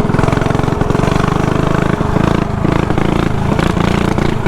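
Small single-cylinder mini bike engine running hard at high, fairly steady revs, with a few brief dips about halfway through.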